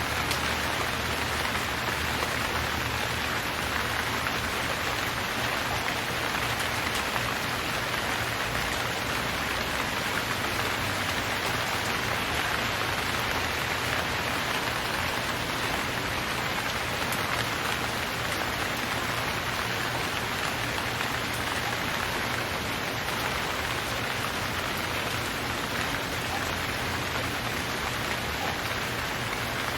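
Steady rain falling, an even hiss of raindrops on surfaces with no thunder or other events.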